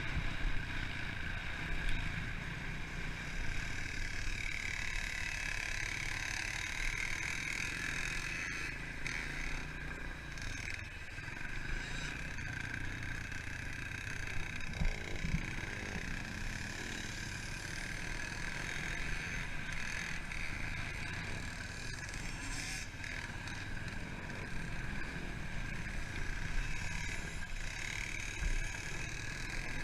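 Pit bike engine running steadily as the bike is ridden.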